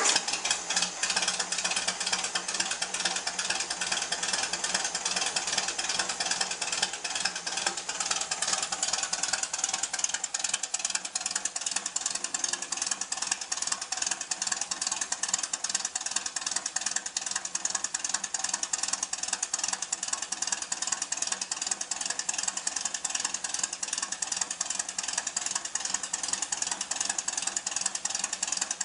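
A 1974 Volkswagen Beetle's air-cooled flat-four engine, fed by twin Weber 34 carburettors, running steadily with a fast, even chatter of firing pulses. It is just after a hesitant cold start.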